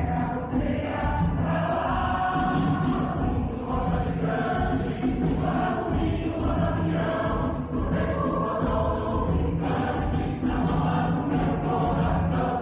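Mixed choir singing with instrumental accompaniment and a steady percussion beat.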